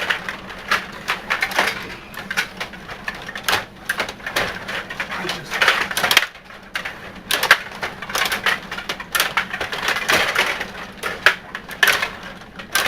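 Table hockey game in play: an irregular, rapid clatter of sharp clicks and clacks as the rods are worked and the plastic players strike the puck and the boards.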